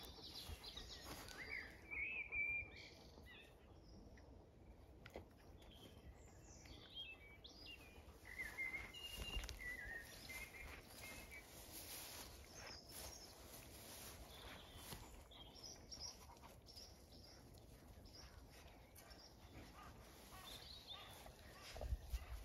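Faint outdoor ambience of small birds chirping in scattered short calls, some rising or falling in pitch, over a low steady rumble.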